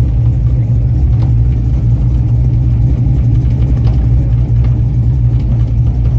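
Engine of a modified street-race truck idling with a steady, deep rumble, holding an even pitch without revving.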